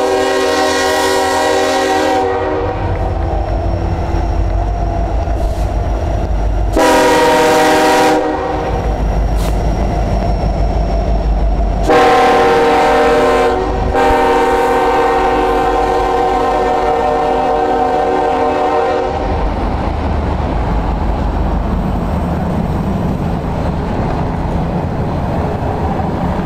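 Locomotive air horn of the Union Pacific 4141 train sounding four blasts, the last the longest at about five seconds, over the low rumble of the passing train. After the horn stops, the train rolls by with a steady rushing rattle.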